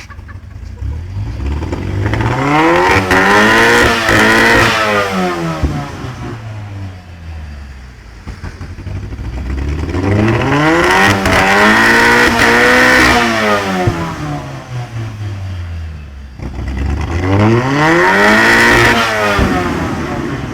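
Car engine revved up and let fall back three times, each slow rise and fall taking several seconds, with a few sharp cracks from the exhaust near the top of the revs.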